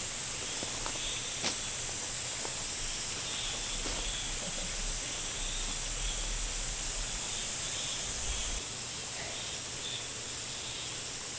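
Steady forest outdoor ambience: an even, high hiss with a few faint ticks and a soft low rumble that fades near the end.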